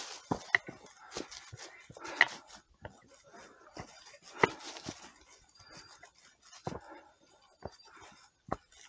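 Irregular footsteps crunching and snapping on a forest trail, with occasional sharper cracks.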